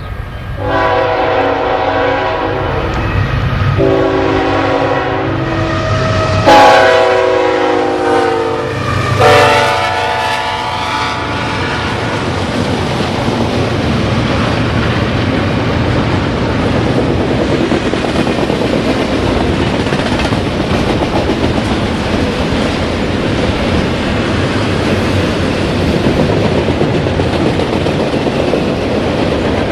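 Locomotive air horn sounding four blasts, the last two louder and falling in pitch as the locomotive passes. The horn gives way to the steady rumble and clatter of the train's cars rolling by on the rails.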